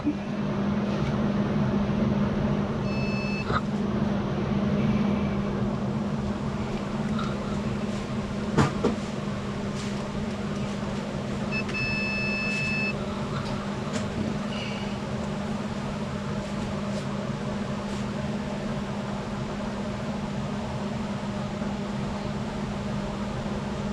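A steady low mechanical hum runs throughout. It is broken by two electronic beeps, a short one about three seconds in and a longer one of about a second near the middle, and by a couple of sharp knocks.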